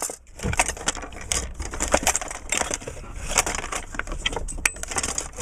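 Hand tools being rummaged through, with metal pieces clinking and clattering against each other in quick irregular knocks.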